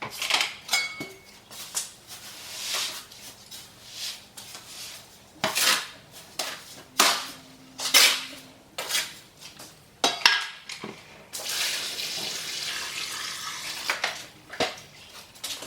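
Mortar mix being stirred with water in a container: a run of separate scrapes and knocks of the mixing tool against the container, with a steadier rushing scrape lasting about three seconds near the end.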